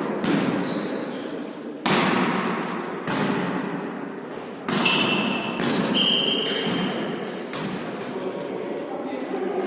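A volleyball being struck and hitting the court, several sharp hits echoing in a large hall, with a few short high squeaks in the middle.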